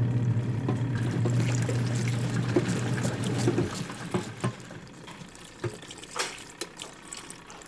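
Water pouring and splashing into the wash tub of a twin tub washing machine as it is topped up. A steady low hum runs under it and stops about three and a half seconds in, leaving quieter splashing and small knocks.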